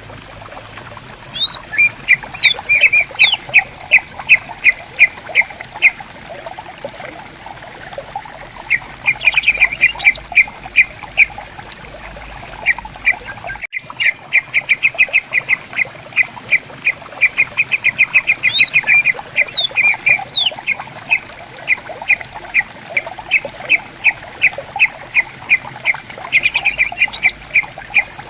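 Cucak ijo (greater green leafbird) calling in runs of sharp, rapidly repeated notes, about four a second, with a few rising whistled sweeps between them. Under the calls runs the faint steady babble of a flowing stream.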